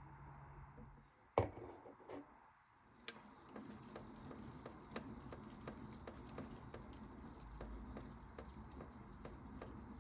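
Toy Bosch Logixx 8 washing machine running: a low steady hum stops about a second in, then come a sharp click and two smaller ones, and after that a low hum with a steady run of light ticks.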